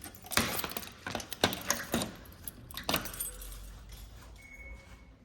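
A bunch of keys jangling, with several sharp metallic clicks, stopping about three seconds in.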